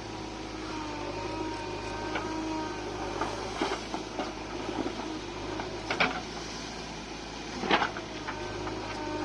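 Heavy diesel machinery running steadily, with a few sharp metallic clanks, the loudest about six seconds and nearly eight seconds in.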